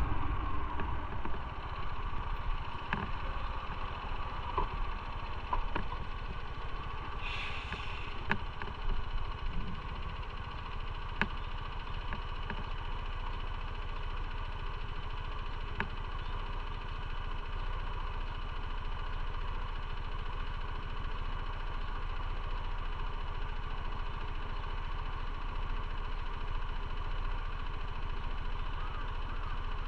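Motorcycle engine idling steadily at a constant pitch, with a few light clicks and a short hiss in the first half.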